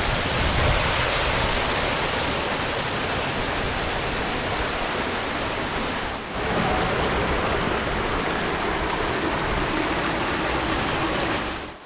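Waterfall cascades on a creek in high flow: a steady rushing of water, with a brief dip about six seconds in, cutting off suddenly near the end.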